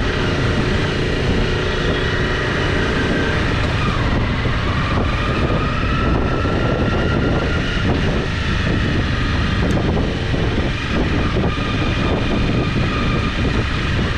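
Motorcycle engine running steadily while the bike is ridden slowly, its pitch drifting a little with the throttle, under a heavy rumble of wind on the microphone.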